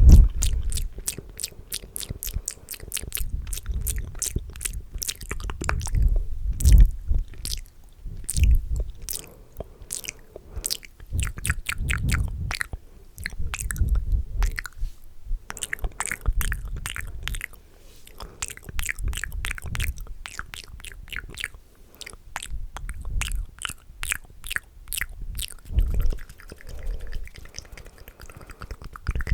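Fast, wet ASMR mouth sounds made close to the microphone: a rapid run of sharp clicks and smacks, several a second, over irregular low thuds, pausing briefly about halfway through.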